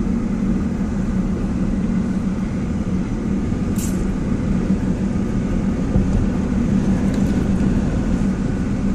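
Steady low road and engine rumble heard from inside a moving car, with a brief click about four seconds in.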